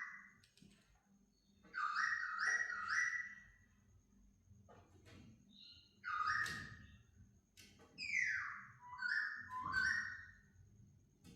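A laughingthrush singing: three loud bursts of clear whistled notes that step and slide in pitch, with a shorter, softer call in between.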